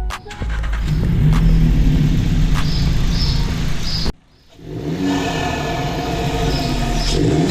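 Car engine running under acceleration, cutting out abruptly about four seconds in and resuming about half a second later.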